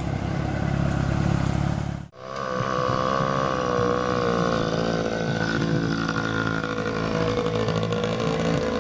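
A motorcycle engine running, cut off abruptly about two seconds in, then another motorcycle engine running with a steady note that wavers slightly.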